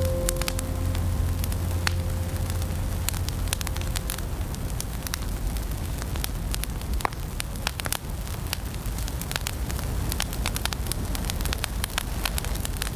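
Wood fire in a fireplace crackling, with irregular sharp pops over a soft steady hiss and low rumble. The last note of a music track fades out in the first few seconds.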